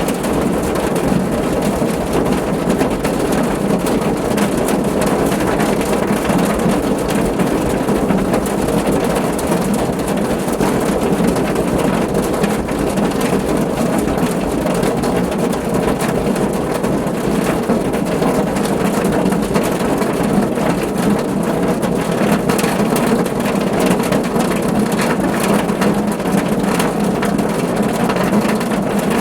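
Steady rain drumming on a car roof, a dense even patter of many drops with a deep, constant low rumble under it.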